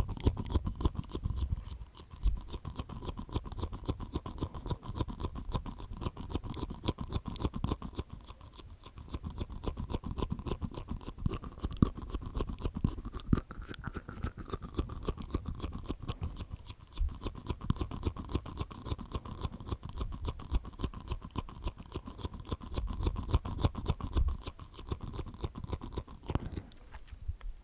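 Close-miked ASMR mouth sounds made inside the mouth: a dense stream of rapid wet clicks and smacks from the tongue and teeth.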